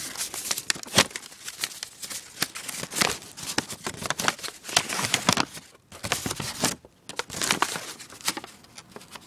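Paper crinkling and rustling in irregular crackles as a folded paper wiring diagram is handled and unfolded.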